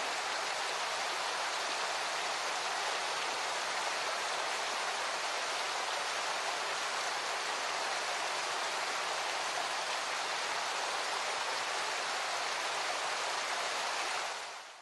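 Steady rushing water, like a stream or waterfall, at an even level with no break, fading out near the end.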